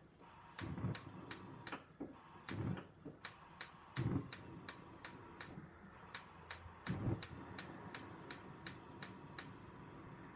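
A regular run of sharp clicks, about three a second, with a few duller knocks among them; it stops near the end.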